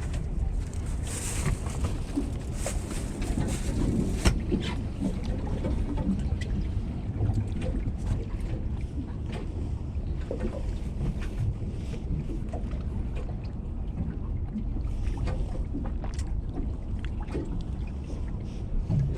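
Steady low rumble of wind buffeting the microphone, with scattered small clicks and knocks.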